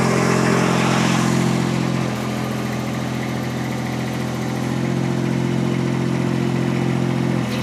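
Mini skid steer's engine running steadily, its note shifting slightly about two seconds in and again near the end.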